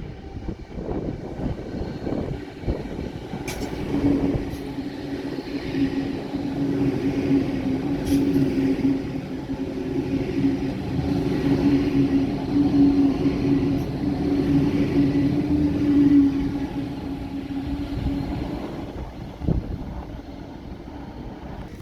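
A train going by: a rumble that builds, peaks, then fades, with a steady hum held through the middle and a few sharp clicks early on.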